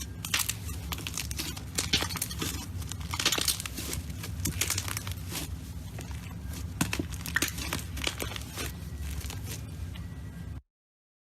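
Slime being squished and stretched by hand, making a dense run of crackling clicks and pops over a steady low hum. The sound cuts off abruptly near the end.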